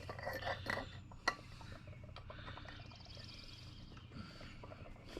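Light clicks and one sharp metal knock in the first second or so as a greased wheel bearing and axle parts are handled and fitted into a mini bike wheel hub, then quieter handling over a faint steady hum.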